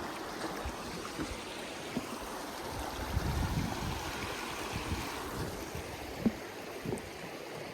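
Creek water running steadily, with a few faint low knocks.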